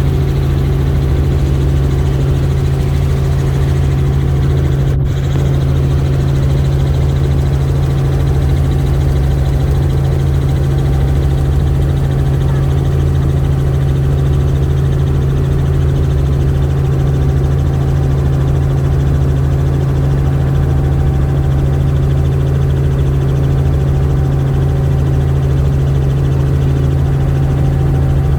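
Helicopter engine and rotor drone heard from aboard in flight: a loud, steady, unchanging hum with a strong low tone. There is a brief dropout about five seconds in.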